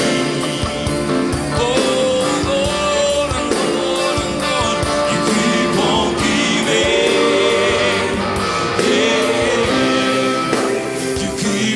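Christian worship music: a band playing with a voice singing over it, at a steady loudness throughout.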